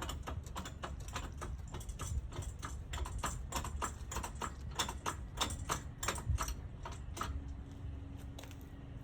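Ratchet wrench clicking rapidly, several clicks a second in uneven runs, loudest in the middle.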